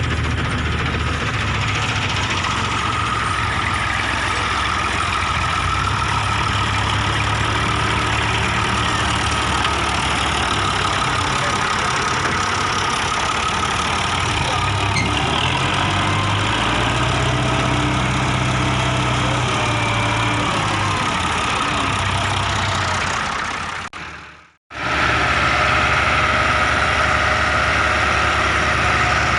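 Massey Ferguson tractor's diesel engine running steadily while pulling a heavily loaded trolley. Near the end the sound fades out and comes straight back a moment later.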